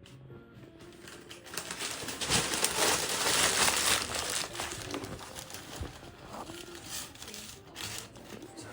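Paper being crumpled by hand as fire-starting kindling, a crackling rustle that is loudest about two to four seconds in and then tapers off.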